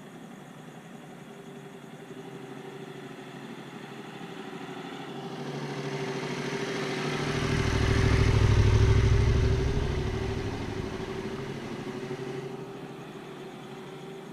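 A motor vehicle passing by, growing louder to a peak about eight or nine seconds in and then fading away, over a steady engine hum.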